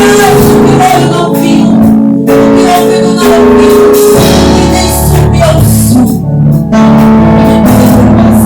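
Live church worship music: keyboard and band playing sustained chords with a bass line, with some singing.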